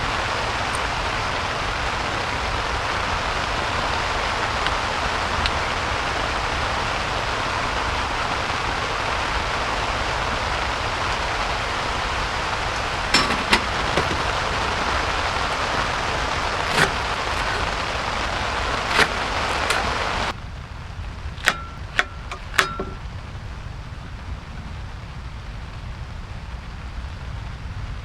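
Heavy rain falling in a steady hiss, with a few sharp taps of drops landing now and then. About two-thirds of the way through, the rain suddenly becomes quieter.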